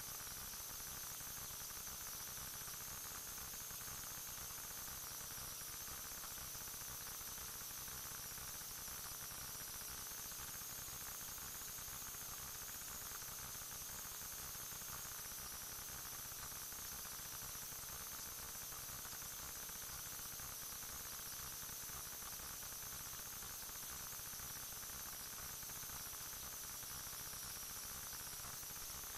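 Steady electronic hiss from a recording system, with two thin high-pitched whines and a faint low hum running through it, unchanging throughout; no other sound stands out.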